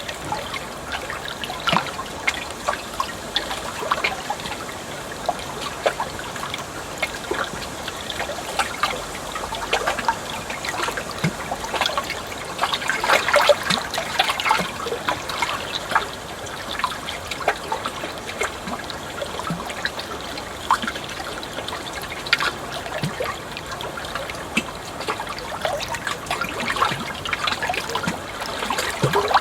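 Running water trickling and splashing, full of small plops and gurgles, busier for a few seconds about midway through.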